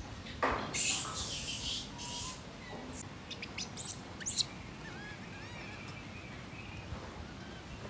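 Short, faint high chirping calls from a small animal. A loud burst of rustling noise comes about half a second in, and a few sharp clicks follow around three to four seconds in.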